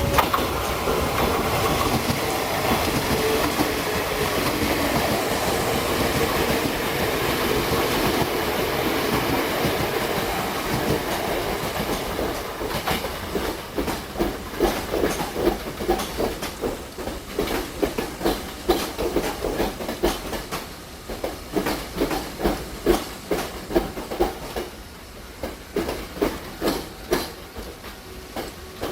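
Kintetsu electric train running past on the Nagoya Line. A loud steady rush of running noise lasts about the first twelve seconds, then the wheels clack over the rail joints in uneven groups, fading toward the end.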